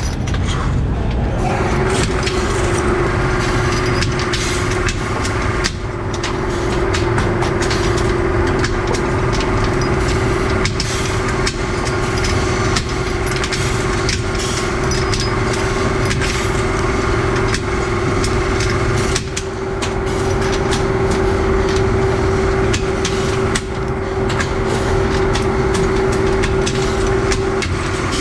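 Workshop machinery running with a steady hum and a low rumble, with scattered clicks and knocks.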